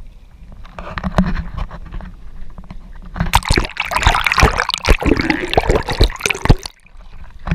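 Kayak paddle splashing and water sloshing against the hull, loudest for about three seconds in the middle and then dropping away.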